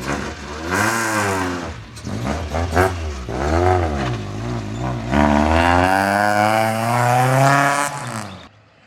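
Freshly rebuilt Toyota 4A-GE four-cylinder twin-cam engine running after its first start, revved up and down several times, then held at higher revs for about three seconds before it shuts off near the end.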